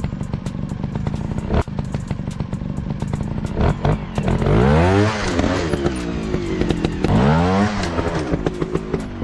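Dirt-bike engine revving twice, the pitch climbing and falling each time, over a steady run of clattering knocks.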